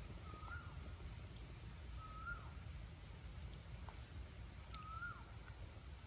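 An animal calling three times, a short note rising slightly and then dropping sharply, about two seconds apart, over a faint low rumble.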